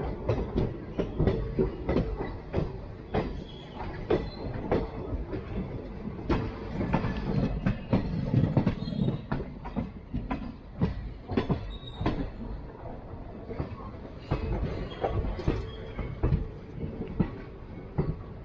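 Jan Shatabdi Express passenger train running, its coach wheels clicking and knocking over rail joints at an uneven pace above a steady low rumble.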